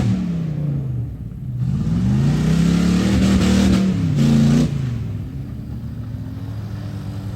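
Mud truck engine revving hard: the pitch falls away in the first second, climbs back up and holds high for a couple of seconds, then drops about two thirds of the way in to a lower, quieter steady run.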